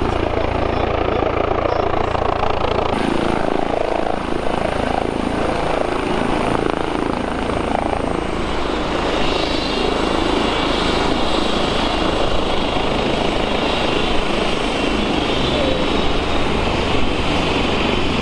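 Helicopter flying close by: steady loud rotor and engine noise, with a high whine joining about halfway through.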